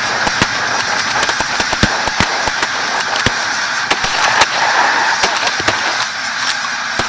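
A large flock of snow geese calling, a dense constant honking, with rapid shotgun shots cracking through it at irregular intervals: a volley fired into the flock.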